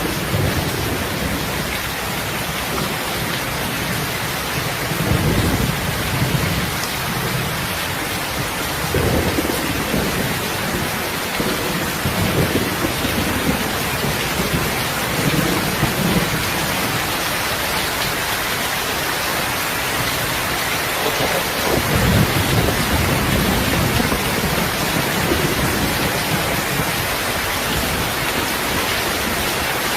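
Steady, dense rain, with low rumbles that swell and fade every few seconds.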